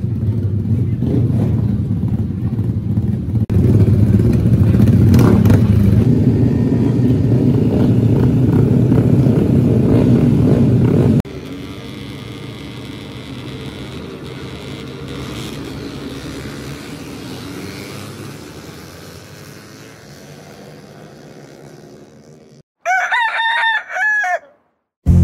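A loud low rumble that drops suddenly about eleven seconds in to a much quieter hum, then a rooster crowing once near the end.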